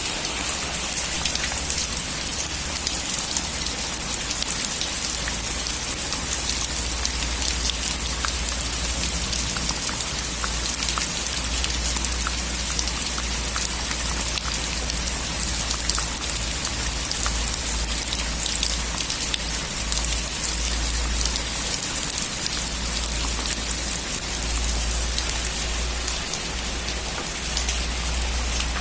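Heavy rain falling steadily on a metal roof, a dense even patter with single drops ticking through it and a low steady rumble underneath.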